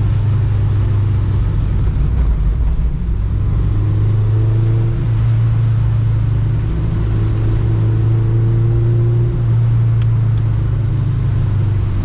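Honda Civic track car's engine running at fairly steady, moderate revs, its low drone shifting slightly up and down in pitch a few times.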